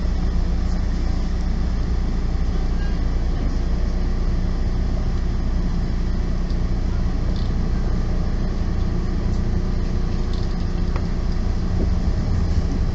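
Running noise heard inside a moving electric train's passenger car: a steady low rumble with a constant hum.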